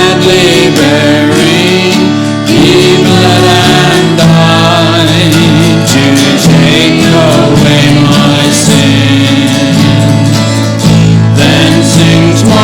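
Hymn music playing: singing voices over sustained instrumental accompaniment, continuous and loud.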